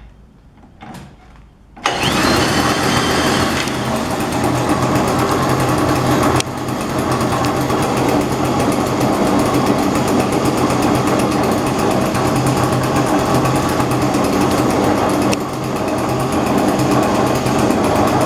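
Small 33.6cc MX5 Superbike friction-drive bicycle engine, freshly rebuilt and bench-mounted, starting up about two seconds in and then running steadily; its level drops slightly twice, about a third of the way in and near the end.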